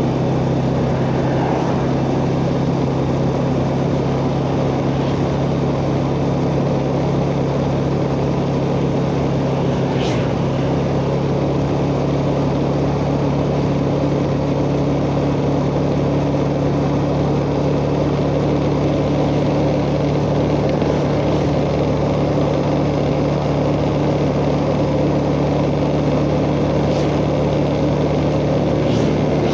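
Yamaha Jupiter Z motorcycle's single-cylinder four-stroke engine running at a steady riding speed, picked up by a phone strapped to the rider's chest along with road noise.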